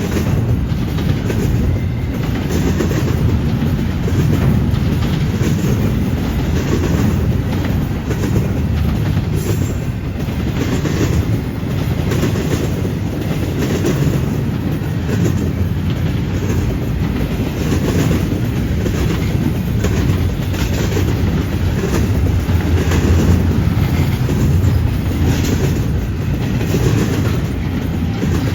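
Freight train rolling past at close range: a steady rumble of cars with the clickety-clack of wheels striking rail joints and the junction switch, many clicks in irregular groups.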